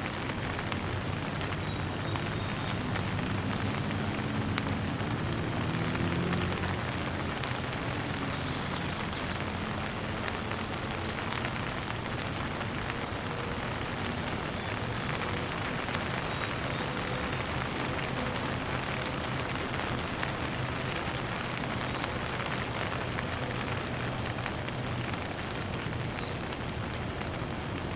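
Steady rain falling and pattering on surfaces. A faint low hum rises and falls a few seconds in.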